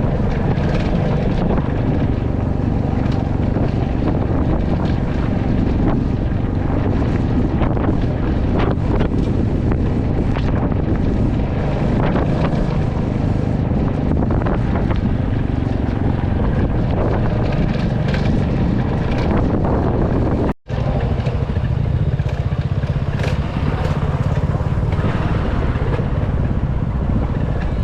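Royal Enfield Classic 350's single-cylinder engine running steadily under way, with wind buffeting the microphone. The sound cuts out for an instant about two-thirds of the way through.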